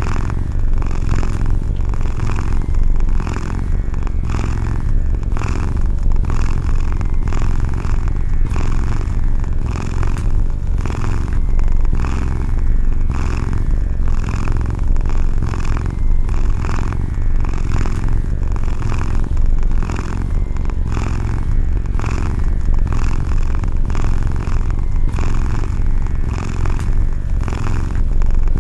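Domestic cat purring, a deep continuous rumble that swells and eases in a regular rhythm with each breath in and out.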